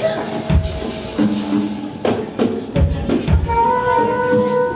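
Live music from a bluegrass-style rock cover band: held, steady notes that change pitch every second or so, over repeated bass drum hits and percussion.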